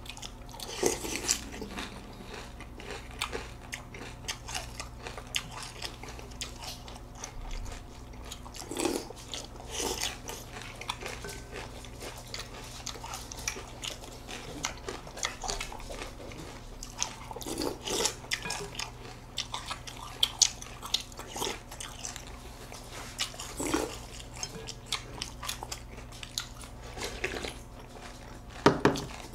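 Close-up chewing and crunching of Special K cereal in milk by two people, with many small crackles and a few louder wet mouth sounds. Near the end, a loud slurp as milk is drunk from the bowl.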